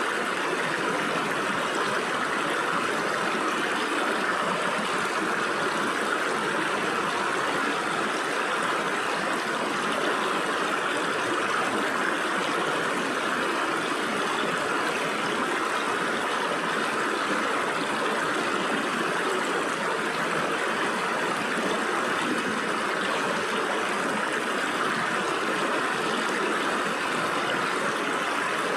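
Stream water flowing and splashing through gaps between rocks, a steady, unbroken rush with a gurgling trickle.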